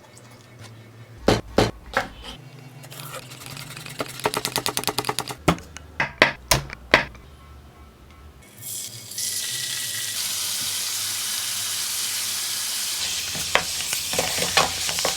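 Sharp knocks and a quick run of clicking, like utensils working in a bowl, then about halfway through a steady sizzle starts as chicken begins frying in a hot pan, over soft background music.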